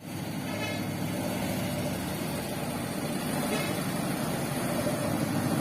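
Road traffic dominated by a heavy vehicle's engine running, growing gradually louder as it draws nearer.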